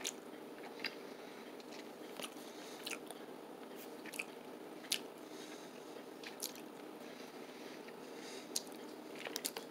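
Faint sounds of someone eating a piece of dried fruit: soft scattered mouth clicks and smacks, about a dozen of them.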